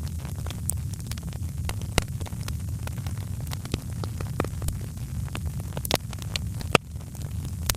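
Wood fire in a fireplace crackling: frequent sharp pops and snaps over a steady low rumble of burning, with louder pops about two seconds in and near the end.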